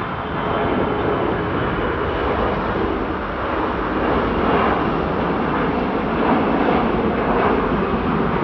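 Jet airliner engines at takeoff power: a loud, steady rushing engine noise that swells slightly over the seconds.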